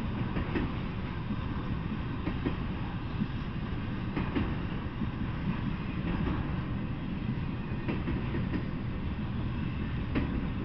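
Intermodal freight train rolling steadily past: a continuous low rumble of steel wheels on the rails, with a few scattered sharp clicks.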